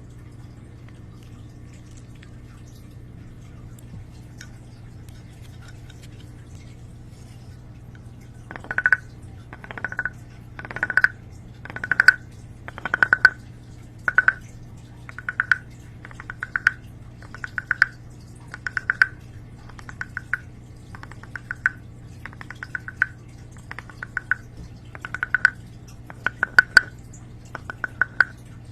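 A series of short crackling strokes close to a microphone, each made of many fine ticks, coming about once a second from roughly eight seconds in, over a steady low hum.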